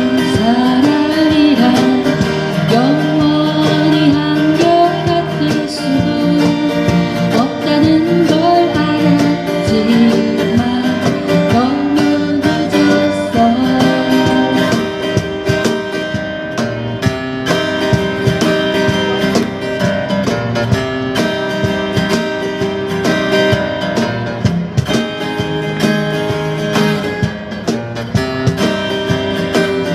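Acoustic guitar strummed live with a singer's voice carrying the melody: a song performed by buskers.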